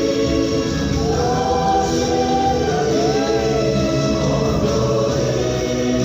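Choir singing, holding long notes.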